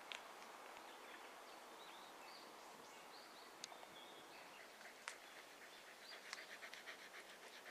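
Faint bird chirps over quiet outdoor ambience, with a few soft clicks and a quick chattering run of notes near the end.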